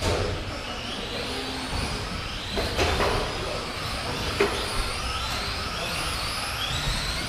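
Several radio-controlled racing trucks running, their motors whining and rising and falling in pitch as they speed up and slow down. Two sharp knocks come about three seconds and four and a half seconds in.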